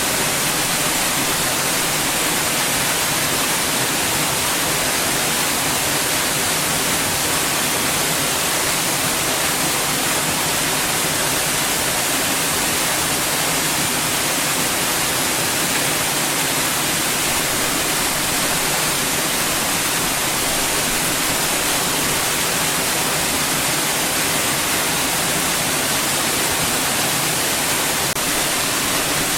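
Steady white noise: an even, unbroken hiss strongest in the treble, with two faint low hums underneath.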